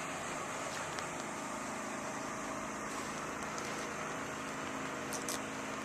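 Steady mechanical hum with a low drone that sets in about a second in, and a few faint clicks near the end.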